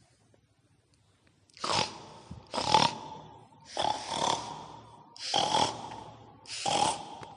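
Five pig-like snorting grunts, about a second apart, starting after a second and a half of quiet, meant as the sound of a babi ngepet (were-pig).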